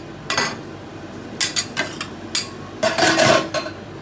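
Metal spatulas scraping and clinking on a cold ice-cream pan as frozen topping is gathered together: several short scrapes, then a longer, louder scrape with a slight ring about three seconds in.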